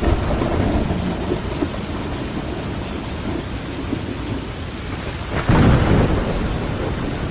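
Steady rain pattering on window glass over a low rumble. About five and a half seconds in there is a louder, deeper surge lasting under a second.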